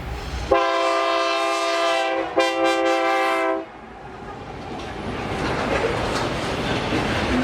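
Freight locomotive horn sounding two blasts, a longer one and then a shorter one, as a chord of several steady tones. After the horn, the rolling rumble and clatter of the passing freight train builds up.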